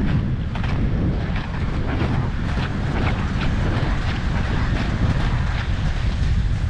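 Wind buffeting the microphone, a steady low rumble, with scattered faint clicks through it.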